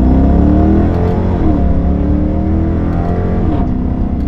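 Straight-piped 5.7 L Hemi V8 of a 2022 Chrysler 300 S accelerating hard. Its pitch climbs, then drops sharply about a second and a half in and again about three and a half seconds in as it is upshifted on the paddles, then climbs again.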